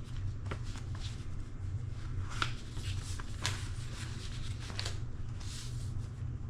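Paper leaflets being handled and leafed through: scattered light rustles and taps over a steady low hum.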